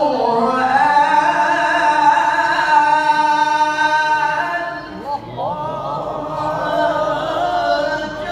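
A man's voice in melodic Quran recitation (tilawah), drawing out a long ornamented note on one syllable. About five seconds in there is a short break, then another long, wavering phrase.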